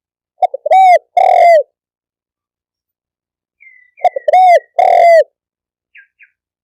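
Spotted dove cooing: two loud phrases about three seconds apart, each a couple of quick short notes followed by two longer coos that rise and fall in pitch.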